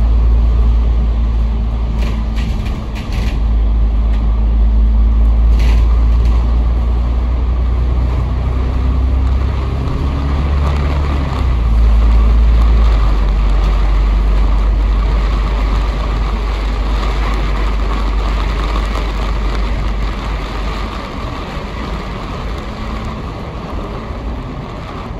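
Heard from inside a moving bus: the diesel engine and drivetrain running under a steady road and tyre rumble, the engine note shifting about halfway through as the bus changes speed. A few short clicks or rattles in the first six seconds.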